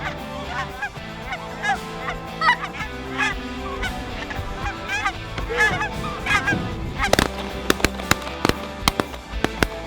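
Geese honking, many calls overlapping, over steady background music. From about seven seconds a quick run of sharp cracks cuts in.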